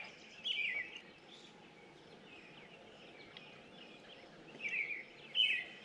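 A songbird singing a short phrase of quick notes falling in pitch, repeated three times: once about half a second in and twice near the end, with fainter chirps in between.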